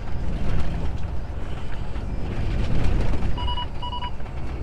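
Inside a Scania truck cab, steady engine and road rumble; about three and a half seconds in, the forward radar's collision warning gives two short beeps. It signals that the truck is closing fast on a slow or stopped vehicle ahead.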